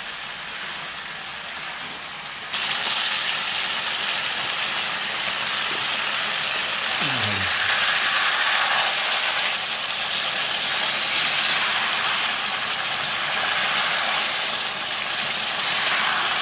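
Tomato-and-spice curry sizzling in an aluminium karahi over a wood fire, a steady frying hiss that gets louder about two and a half seconds in.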